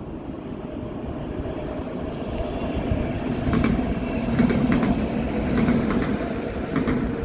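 Passenger train passing, its rumble growing louder to a peak about halfway through, with its wheels clicking over rail joints in quick groups during the second half.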